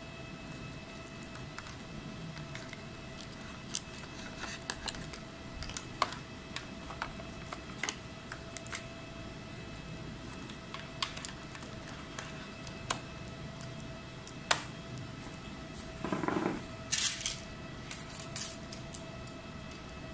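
Scattered light clicks and taps, like small tools and parts being handled, over a steady high electrical whine, with a brief rushing noise about sixteen seconds in.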